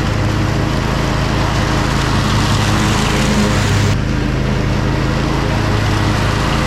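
Zero-turn lawn mower engine running steadily at mowing speed, with a slight shift in its sound about four seconds in.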